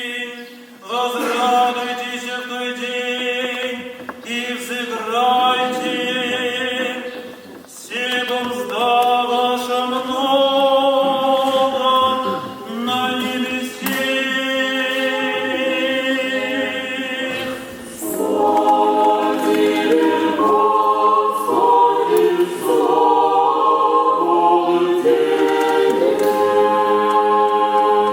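Church choir singing unaccompanied Orthodox liturgical chant in several phrases with short breaks between them. About two-thirds of the way through, the voices open out into fuller multi-part harmony.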